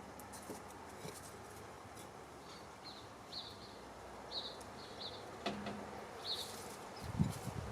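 A small bird chirping, a run of short high calls repeated every half second or so over low outdoor background noise. Low rustling and knocks near the end.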